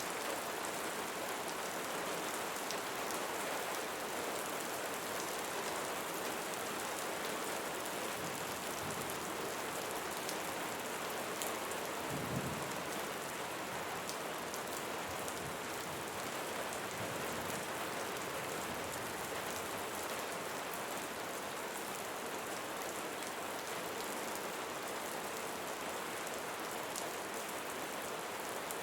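Steady rainfall, with individual drops ticking sharply here and there and a brief low thud about twelve seconds in.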